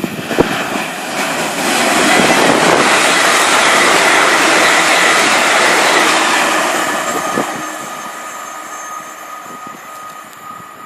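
A train passing on the main line: a loud, steady roar that builds over the first two seconds, holds for about five seconds, then fades away.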